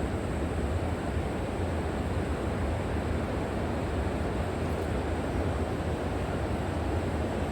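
Steady rushing of a flowing river, an even wash of water noise with a deep low rumble beneath it.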